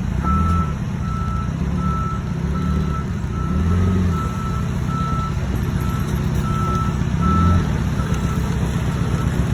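Forklift reversing with its backup alarm beeping steadily, about one and a half beeps a second, over the low running of its engine, which swells now and then. The beeping stops near the end as the forklift halts.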